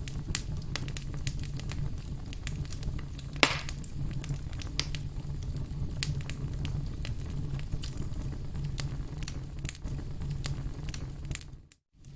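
Burning firewood crackling and popping, with scattered sharp snaps over a steady low rumble. One louder pop comes about three and a half seconds in. The sound cuts out briefly near the end.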